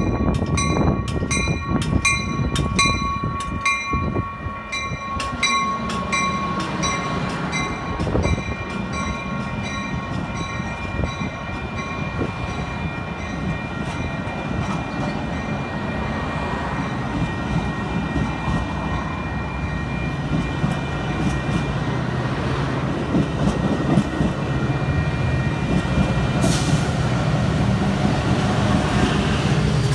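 Commuter train passing close by. A bell rings rapidly, about two strikes a second, for the first several seconds as the cab car comes in, then fades. The bilevel passenger cars roll past with a steady rumble and wheel noise, and toward the end the diesel locomotive pushing at the rear goes by with its engine note.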